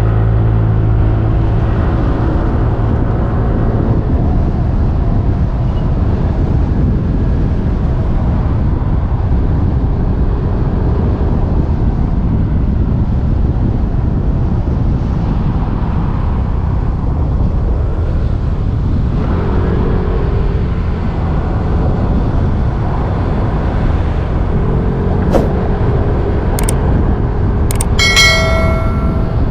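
Motorbike riding: steady engine and road noise with heavy wind rumble on the microphone, the engine's note showing now and then as it changes speed. Near the end come a few sharp clicks and a brief high-pitched tone.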